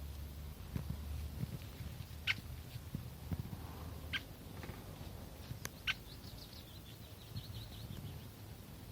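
Small birds calling in a forest: a few short, high chirps, then a quick run of high notes about six seconds in, over a steady low rumble.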